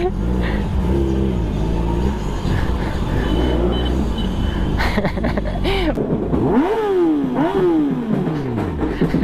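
Kawasaki ZX-10R inline-four engine with a loud exhaust, rumbling low, then revved up and down several times in the second half, the pitch rising and falling with each rev.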